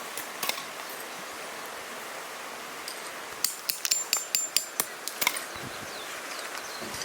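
A quick run of about a dozen sharp, light clicks and knocks, over a steady faint outdoor background.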